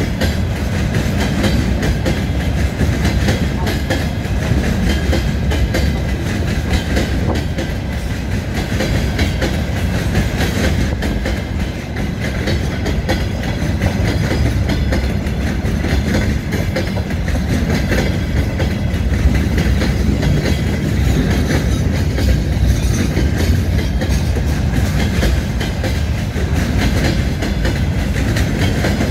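Empty timber-carrying flatcars of a long freight train rolling past, their steel wheels rumbling and clicking on the rails in a steady, unbroken run.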